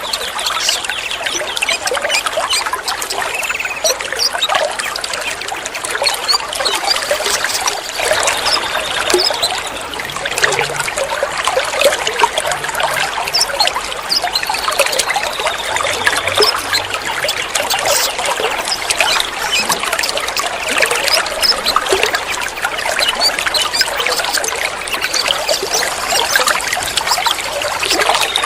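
Water trickling steadily, with many small bird chirps and a few short whistled notes over it.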